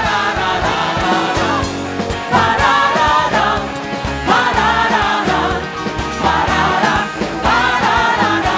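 Worship band with drums and bass accompanying group singing of a praise song, phrases about every two seconds.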